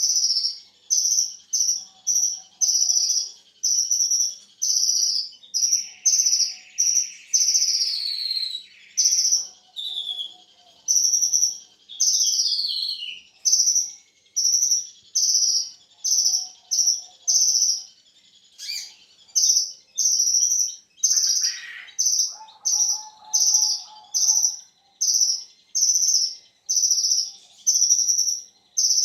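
Kolibri ninja sunbird calling in a fast, restless run of sharp high chirps, about one and a half a second, with a short buzzy trill a few seconds in and a brief lower note near two-thirds of the way through.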